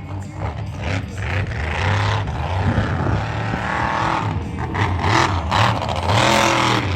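Engine revving hard, its pitch rising and falling several times.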